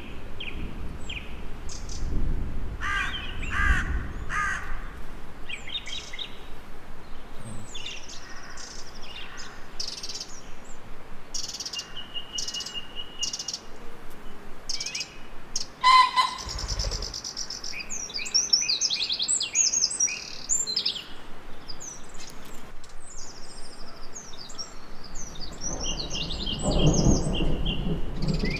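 Several songbirds chirping and trilling in overlapping high, quick phrases, with a few harsher calls among them. A louder low sound swells near the end.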